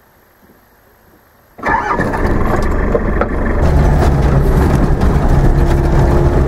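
A vehicle's engine starts abruptly about a second and a half in and carries on running, settling into a steady low drone. Before it starts there is only faint background.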